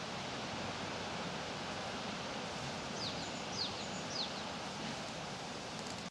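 Steady rustle of leaves in a park, with a small bird giving three short, high, falling chirps a little over half a second apart midway through.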